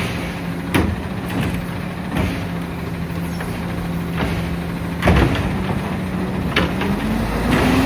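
Peterbilt 520 garbage truck's engine idling steadily, with several sharp clacks spread through it. Near the end the engine begins to rev, its pitch rising.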